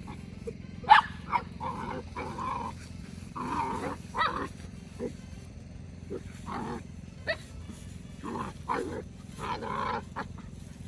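A dog making a string of short growls and grunts at irregular intervals, with a few sharp clicks.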